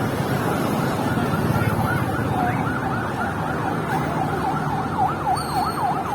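An electronic siren yelping, its pitch sweeping quickly up and down over and over, the sweeps getting faster and plainer near the end. Underneath is a steady rumble of traffic noise.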